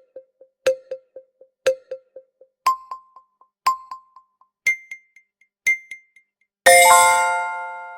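Quiz countdown timer sound effect: six short electronic beeps, one a second, each followed by quick fading echoes, stepping up in pitch every two beats, then a bright ringing chime chord that slowly fades, marking time up.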